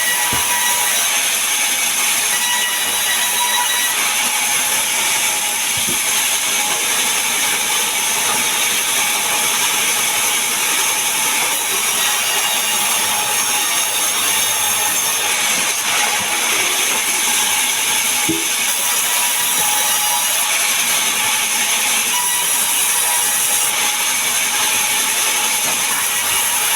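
Power saw cutting mahogany and pine timber: a steady, loud, hissing cut of the blade through the wood, with a few faint knocks.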